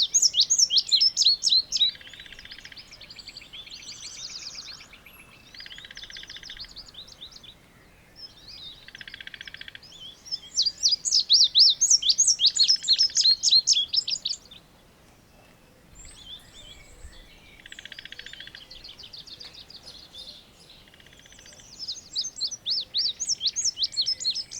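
Indigo bunting singing: three loud songs of quick, sweeping high notes, with quieter buzzy bird trills between them.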